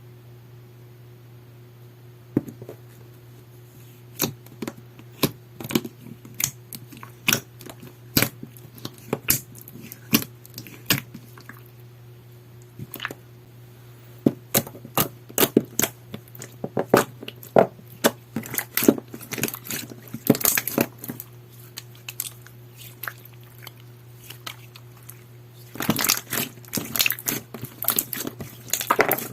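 Clear water-jelly slime being pressed and squished by hand, giving irregular sharp clicks and pops that come thick and fast near the end. A steady low hum runs underneath.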